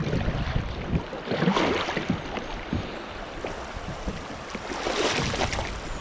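Creek water rushing and splashing around a kayak in a current, swelling louder twice.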